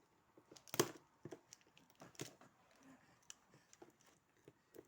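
Scissors cutting packing tape on a cardboard box: a series of irregular faint snips and taps, the sharpest about a second in.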